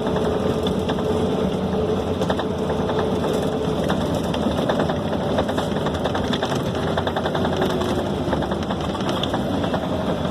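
Scania K270 city bus under way, heard from inside the cabin: a steady diesel engine drone with road noise, and many quick clicks and rattles from the bus body and fittings. A whine runs through the first few seconds, then fades.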